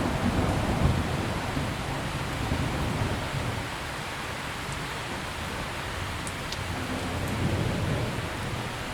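Steady heavy rain with rolling thunder. A low rumble fades over the first few seconds, and another swells briefly near the end.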